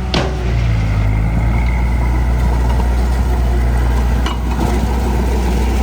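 Heavy-equipment diesel engine running steadily at a low, even hum, with a sharp knock just after the start and another about four seconds in.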